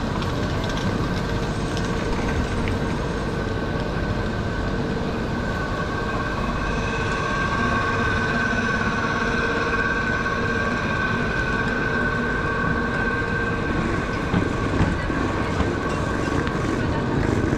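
Steady hum and whine from a standing double-decker OUIGO TGV, its tones strongest midway as it is passed, over the low rumble of a suitcase's wheels rolling on the platform.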